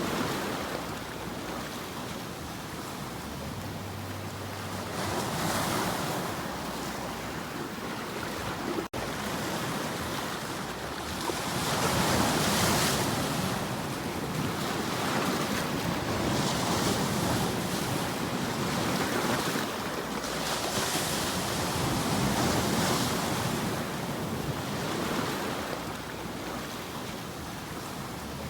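Ocean waves washing onto a shore, the surf swelling and falling back every few seconds, with a little wind. A split-second break in the sound about a third of the way through.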